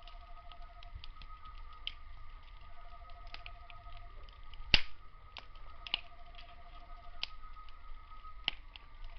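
Wood fire crackling, with irregular sharp pops and one loud snap about halfway through. Night insects call steadily underneath: a continuous high drone and a pulsing trill that starts and stops every few seconds.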